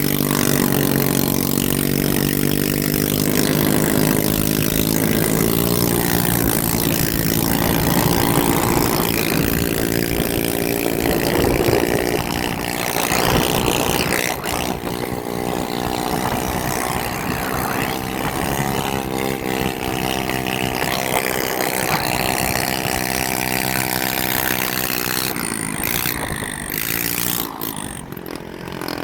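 A motorcycle engine running steadily, its pitch drifting slowly up and down, with rushing wind and road noise.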